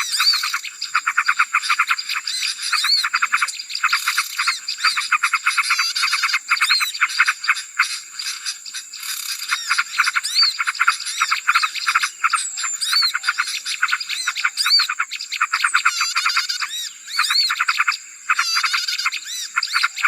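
Bird-lure recording of many small songbirds calling at once: a dense, noisy chatter of rapid chips and trills with short arched whistles mixed in, over a steady high tone.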